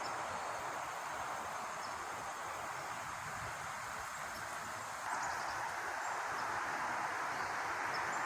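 Steady outdoor ambience: an even rushing hiss, slightly louder from about halfway through, with faint insects in the background.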